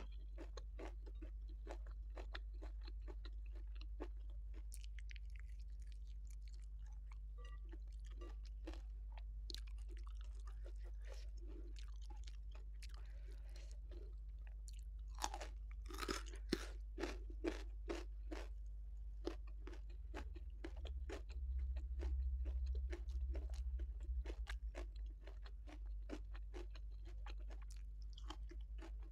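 Close-miked chewing and crunching of a mouthful of rice, salted fish, sambal and raw vegetables, with many short wet clicks of the mouth, and a run of louder crunches about halfway through. A steady low hum lies underneath.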